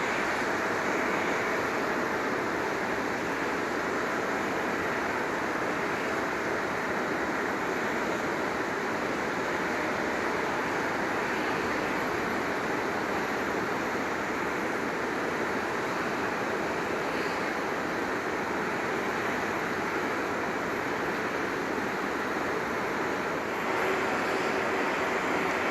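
Steady rushing noise of a jet airliner's engines running, with a faint steady tone through it and a slightly louder second tone near the end.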